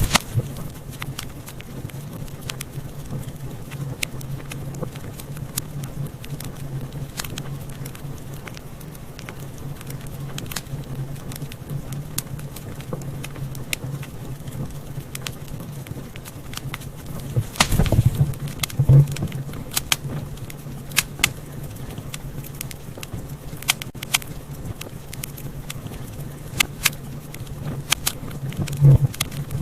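Wood fire in a fireplace crackling and popping, with many sharp snaps over a steady low hum. The pops come thicker and louder a little past halfway through and again just before the end.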